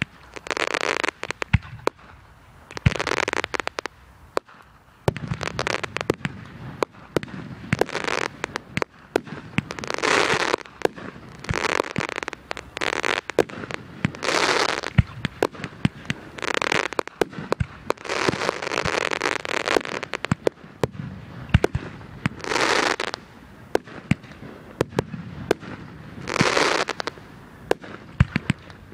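Fireworks going off in a steady run: many sharp pops and bangs, with a noisy rushing burst about every second or two.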